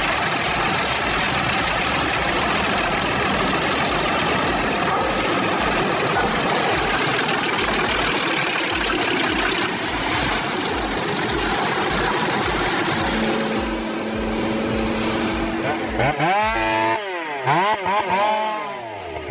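Large truck-mounted Pezzolato wood chipper with a 700 hp Volvo engine running under load: a loud, dense, steady mechanical noise. In the last few seconds an engine note rises and falls several times.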